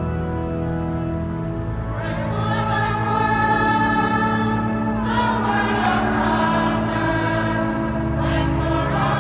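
Church choir singing a sacred piece with organ accompaniment. Sustained organ chords are heard alone at first, and the choir comes in about two seconds in.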